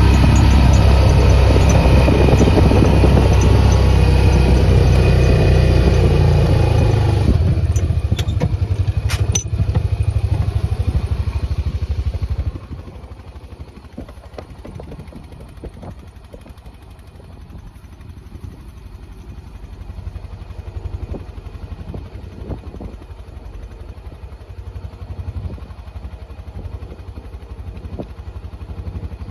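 A farm vehicle's engine runs loud and steady, eases off with a few clicks about eight seconds in, then goes much quieter about twelve seconds in. A lower rumble with scattered knocks and clatter follows.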